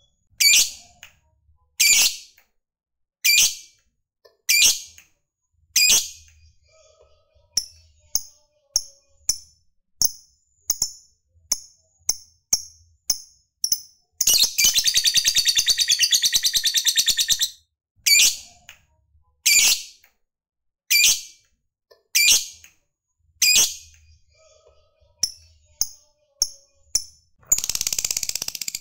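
Lovebird calling: sharp, shrill chirps about every second and a half, then a quicker run of short chirps at about two a second. Near the middle comes a long unbroken chattering trill of about three seconds, the 'ngekek' call, and another begins near the end.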